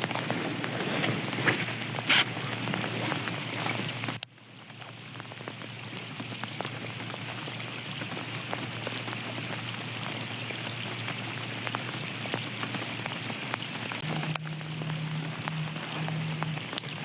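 Steady rain falling, with many small drop hits over a low steady hum. The sound cuts out sharply about four seconds in and then fades back up.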